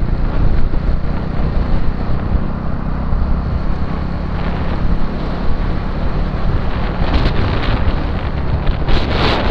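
Wind buffeting the microphone over a motorcycle's engine running steadily on the move, with a stronger gust near the end.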